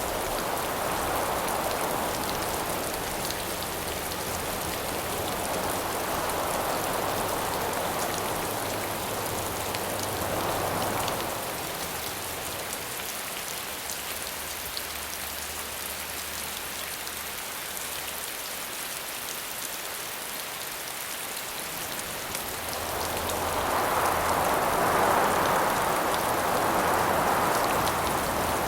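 Steady rain falling, with wind rising and falling in slow gusts over it; the strongest gust swells up near the end.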